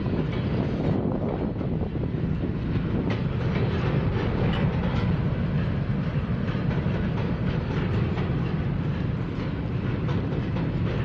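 Freight train's covered hopper cars rolling across a steel trestle: a steady low rumble with scattered clicks from the wheels on the rails.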